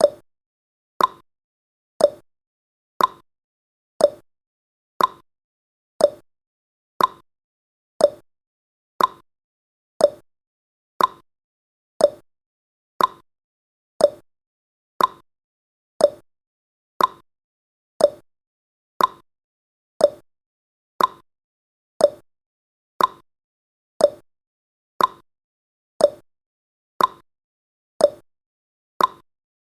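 Clock-style tick-tock sound effect of a countdown timer: one short click every second, alternating between a higher tick and a lower tock, each dying away quickly.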